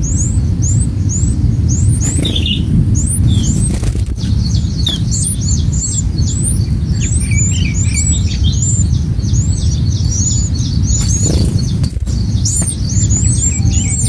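Small birds chirping: a steady run of high, quick chirps, a few a second, thickening into overlapping calls through the middle, over a constant low rumble. Two brief whooshes break in, about two seconds in and again near eleven seconds.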